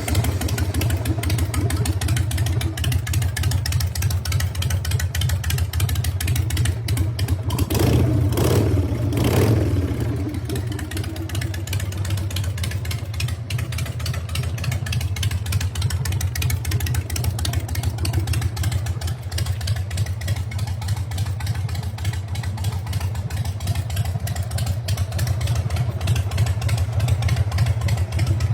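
1998 Harley-Davidson Sportster 883 chopper's air-cooled V-twin idling through a hand-built custom exhaust. The throttle is blipped twice, about eight and nine and a half seconds in, before it settles back to a steady idle.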